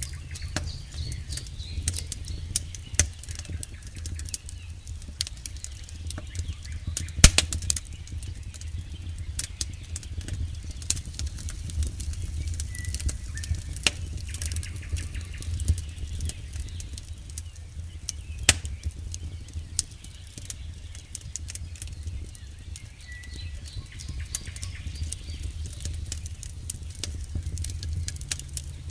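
Campfire burning: a steady low rumble of flames under irregular sharp crackles and pops of burning wood, the loudest pop about seven seconds in.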